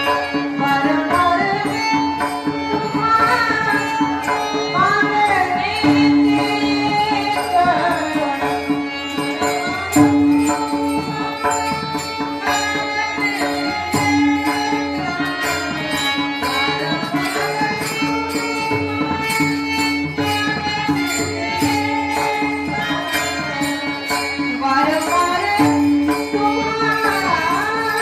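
A woman singing a devotional song with gliding, ornamented melody lines, over a steady drone and hand-drum accompaniment.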